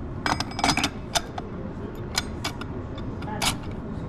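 Metal transmission parts clinking and knocking against each other as they are handled and fitted: a quick cluster of clinks in the first second, then single clinks about two seconds and three and a half seconds in, over a steady low shop hum.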